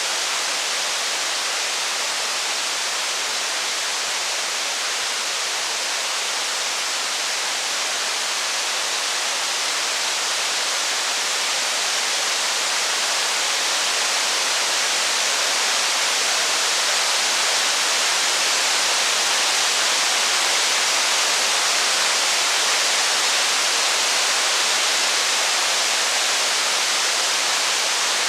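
Steady rain, an even hiss with no crackles or thunder, swelling slightly in the second half.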